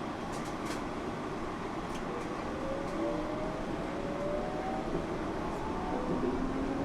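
Yurikamome rubber-tyred automated train heard from inside the car, its motor whine rising slowly in pitch over the running rumble as the train gathers speed, with a few faint ticks.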